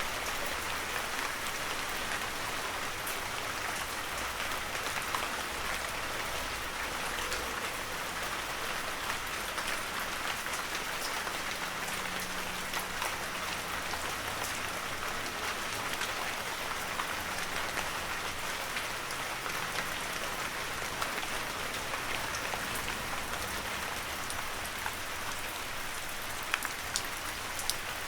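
Heavy rain falling steadily, a dense even hiss with individual drops pattering through it.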